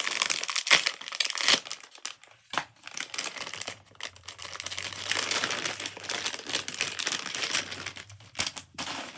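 Plastic packaging crinkling and crackling as Pop-It bracelets are unwrapped and the wrappers handled, in quick irregular bursts with sharp crackles.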